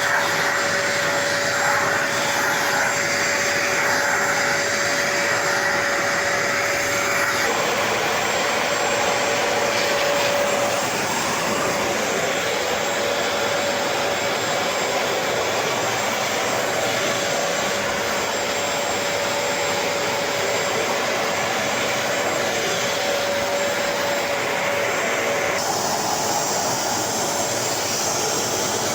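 Vacmaster SCA0801 carpet spot cleaner's motor running steadily, a loud whirr with a steady hum in it. The sound shifts about seven seconds in and again near the end.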